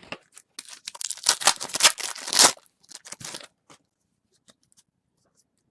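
A trading-card pack wrapper being torn open, with a run of crinkling, tearing rustles lasting about three seconds, loudest in the middle, then a few faint ticks.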